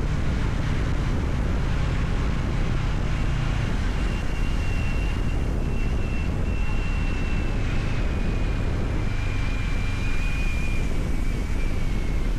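Kawasaki Ninja 650R parallel-twin engine running at a steady ride, mixed with wind rush over the microphone. A thin whistling tone comes in about four seconds in and slowly falls in pitch.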